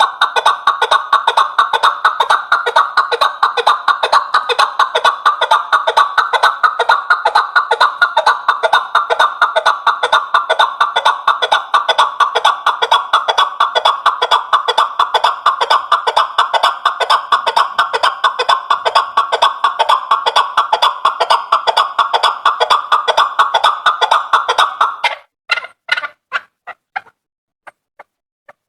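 Chukar partridge calling: a long, rapid run of clucking notes, several a second, that breaks off about 25 seconds in into a few scattered single notes.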